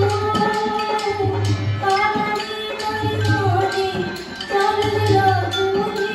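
Rajasthani folk music: a drum beats a steady rhythm under a winding held melody.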